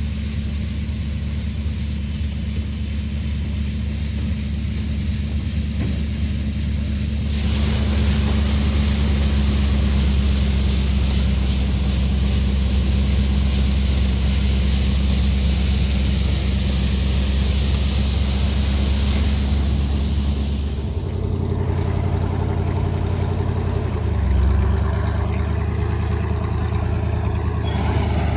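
Harvest machinery engine running steadily. A broad rushing noise joins it about seven seconds in and drops away about two-thirds of the way through, after which the engine's note shifts.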